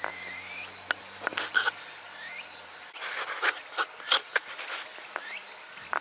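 Short bird chirps and a few rising whistled notes, scattered over light outdoor background noise, with sharp taps in between.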